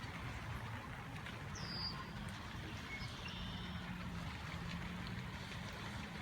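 Steady low hum of a distant motor, with a few short high bird chirps over it, one falling chirp a little under two seconds in.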